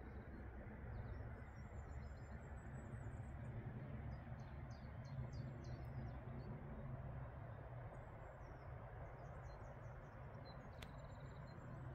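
Faint songbirds chirping and trilling in short repeated phrases over a steady low rumble and hiss of outdoor background noise. A single sharp click comes near the end.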